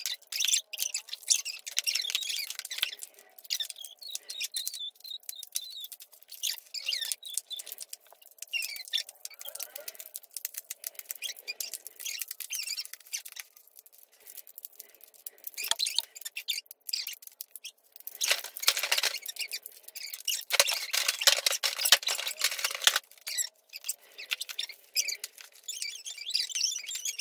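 Plastic magnetic building tiles clicking and clattering against each other as they are sorted: a dense, uneven run of sharp clicks with short high squeaky chirps among them, busiest about two-thirds of the way through.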